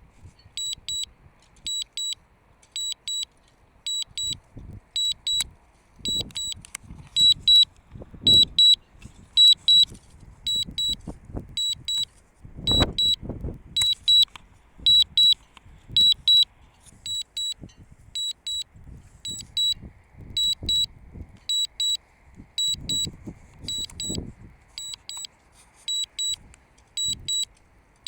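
DJI Mavic Mini controller's warning alarm, signalling low battery: high double beeps repeat quickly and steadily. Under them, strong wind buffets the microphone in low rumbling gusts.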